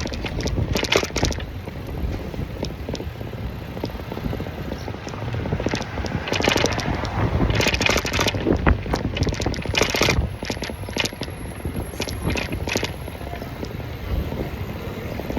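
Wind buffeting the microphone of a moving bicycle, over a low rumble of passing street traffic, with several short gusts of hiss.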